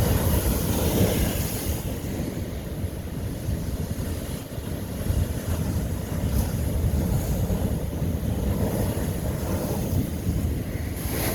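Ocean waves crashing and washing over old lava rock, with a surge near the start and another just before the end, over a heavy low rumble of wind on the microphone.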